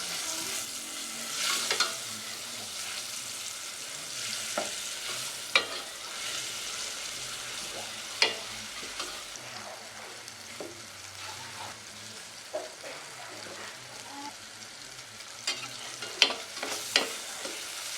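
Food frying and sizzling in a pan while it is stirred, with sharp clicks and knocks of the utensil against the pan now and then, most of them near the end.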